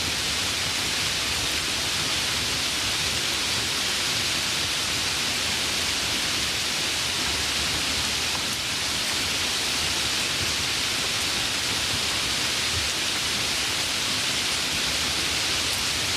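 Steady rainfall, an even hiss of many drops with no single drop standing out.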